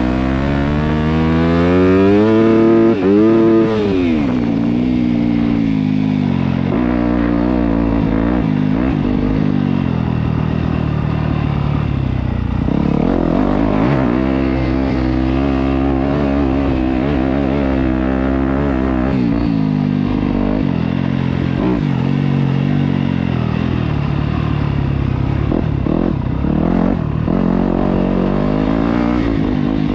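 Yamaha YZ250F dirt bike's single-cylinder four-stroke engine ridden hard, its revs climbing and dropping again and again through the gears, with the highest climb about three seconds in.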